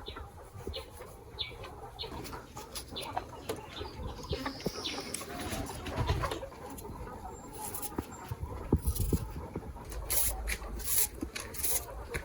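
Chickens clucking, with scattered short knocks and clicks and a denser run of sharp clicks near the end.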